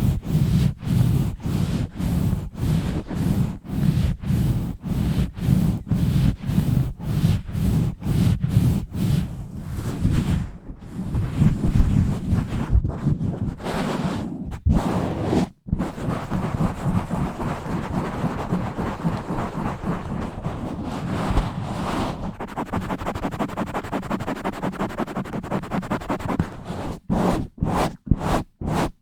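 Scratching and rubbing directly on a bare microphone. Quick, rhythmic strokes of about three a second at first, then after a brief cut-out a steadier, continuous rubbing, and fast strokes again near the end.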